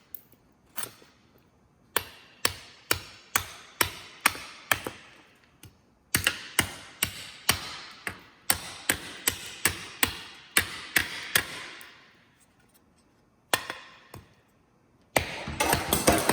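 Kukri blade chopping into a target in a cutting test: a run of sharp, separate blows about two a second, then faster, denser chopping, a pause, and another burst of rapid chops near the end.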